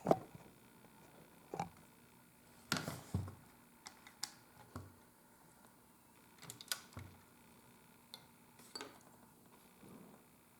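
Leatherworking hand tools and leather handled on a workbench: scattered light clicks and taps, about a dozen at irregular intervals, the sharpest right at the start.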